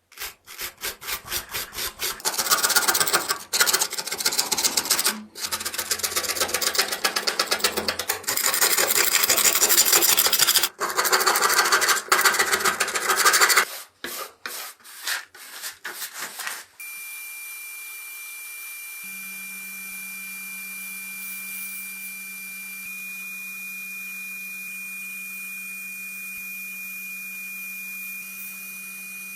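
Quick, rhythmic hand scrubbing or abrasive strokes, as in rust removal by hand, for the first half or so, thinning out around 14 seconds. Then a steady high-pitched whine over a low hum, from a small electric machine running.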